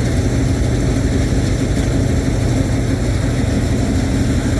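Combine harvester's engine running steadily: a loud, even low hum that holds the same pitch throughout.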